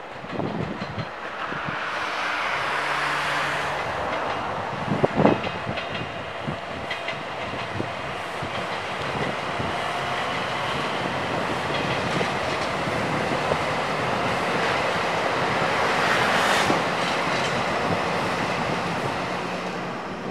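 Electric passenger train running past on the rails, its wheels clattering, with a sharp clank about five seconds in. The sound builds, is loudest a few seconds before the end, then falls away as the last cars go by.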